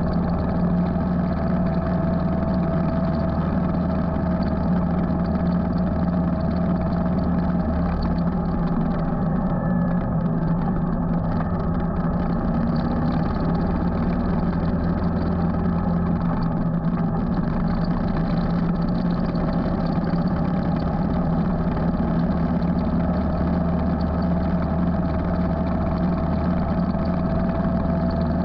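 Motorcycle engine running steadily while riding, its low note changing twice as the engine speed shifts, over a steady rush of road and wind noise.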